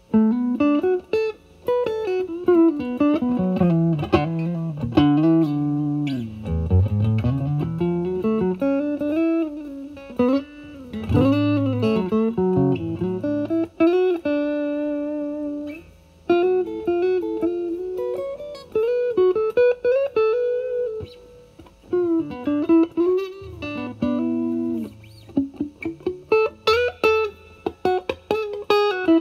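Electric guitar (Stratocaster) played through a Vertex Steel String Clean Drive overdrive pedal set to low gain (1 to 2) into a Marshall Valvestate amp: a light, nearly clean drive. Blues-style single-note lead phrases with string bends and vibrato, and a held note about halfway through.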